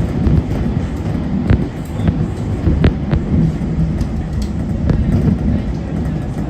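JR Kyushu 811 series electric train running, heard from inside the car: a steady low rumble with a few sharp clicks as the wheels cross rail joints.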